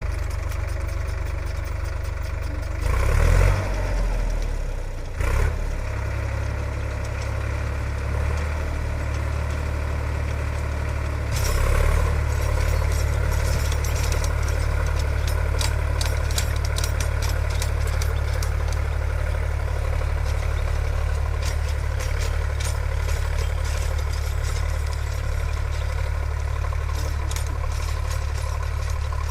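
Sonalika DI 50 tractor's diesel engine running steadily, with a couple of brief louder bursts about 3 and 5 seconds in. It then runs a little louder and stays there from about 11 seconds in.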